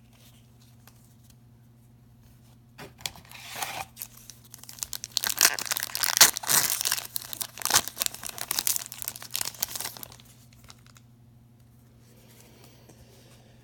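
A hockey card pack's wrapper is torn open and crinkled in the hands. It starts about three seconds in, is busiest in the middle and stops a few seconds before the end.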